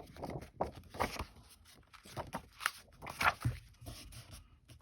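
Patterned paper being handled and pressed onto a glued notebook cover: a run of irregular rustles, taps and light knocks.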